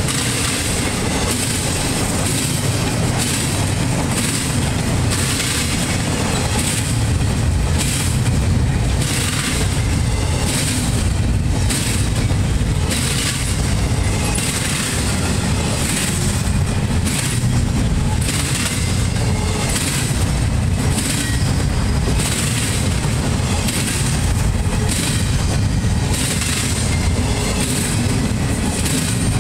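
Empty freight cars rolling past close by: a steady low rumble of wheels on rail, with wheels clacking over the track at a regular rhythm.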